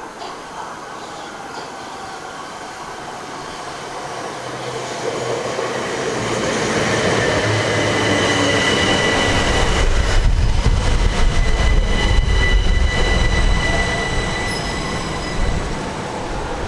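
Class 375 electric multiple unit running into the platform, growing louder over about ten seconds with a steady high-pitched whine. A low rumble and a quick run of clicks from the wheels over the rail joints come as it draws level, then it eases a little.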